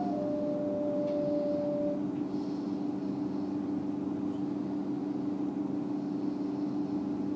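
Train running, heard from inside the carriage: a steady low hum, with a clear higher tone over it for about the first two seconds.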